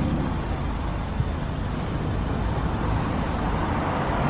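Mercedes-Benz A-Class hatchback's engine running steadily at low revs as the car creeps forward at walking pace.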